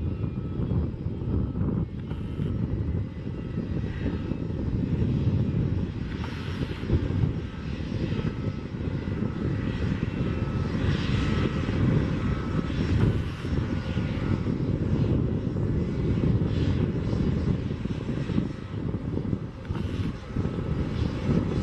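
Boeing 767-200F freighter's jet engines running with a steady low rumble.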